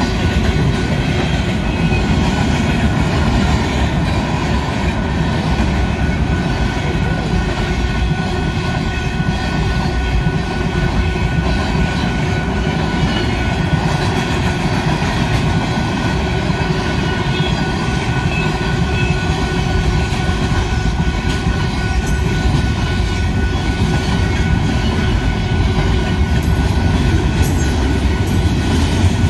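Railroad cars rolling past on the track in a steady, loud rumble, with thin high ringing tones from the wheels on the rails over it.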